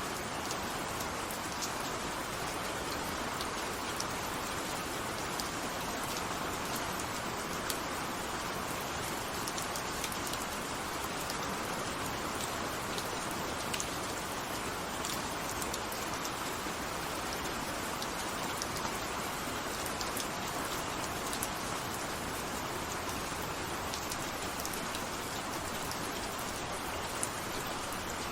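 Steady rain falling, an even hiss with scattered individual drops ticking on a surface throughout.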